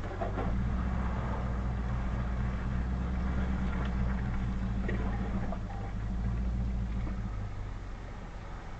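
Vehicle engine running at a steady low speed as it creeps along a dirt trail, with a few light rattles or knocks. The drone drops away near the end.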